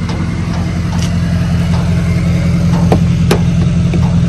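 Car engine idling steadily, a loud even low hum, with a couple of short sharp clicks about three seconds in.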